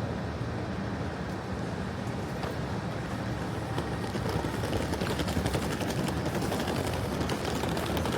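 Steady noise of a passenger train, with many small, rapid clicks from about four seconds in.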